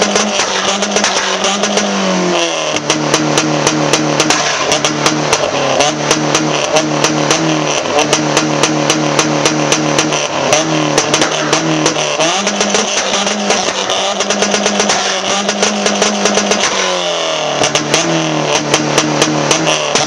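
Ford Fiesta Zetec S engine through a Milltek full exhaust, held at high revs on an Omex rev limiter so the note stutters with rapid crackles. The pitch drops about two seconds in and again near the end.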